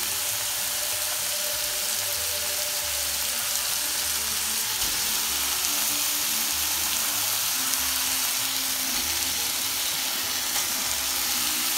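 Ground beef and chopped onions and bell peppers sizzling steadily in olive oil in a hot nonstick pan.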